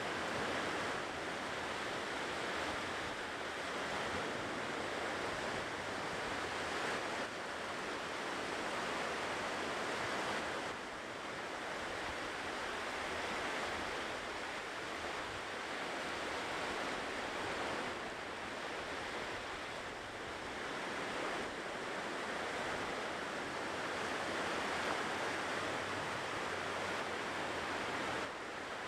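Ocean surf washing onto a shore: a continuous wash of breaking waves that swells and eases gently every few seconds, with no single sharp crash.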